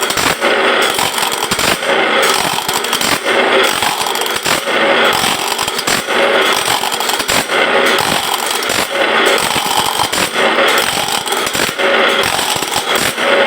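Bandsaw blade sharpening machine running: a loud, continuous grinding with rapid clatter, rising and falling in a regular cycle about every one and a half seconds as it works along the blade's teeth.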